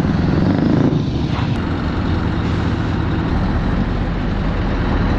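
Heavy truck's diesel engine running steadily, a deep low rumble that gets a little heavier about two-thirds of the way through.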